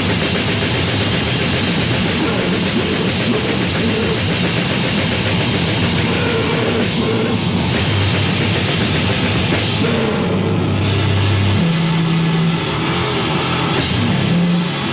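Loud heavy metal band music from a 1987 demo recording, with guitar and drum kit playing without a break.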